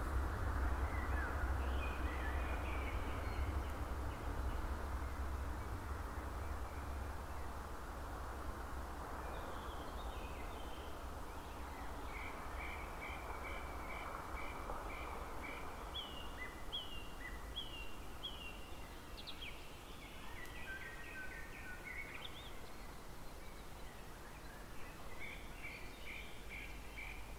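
A bird, which the uploader thinks is a kestrel, calling in series of short repeated notes, about one and a half a second, starting about ten seconds in and returning near the end, over a steady low rumble.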